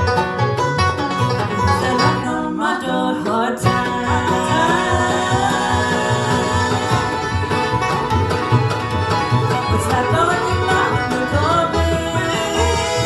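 Bluegrass band playing live between sung lines: picked strings, banjo among them, over a steady pulse of upright bass notes.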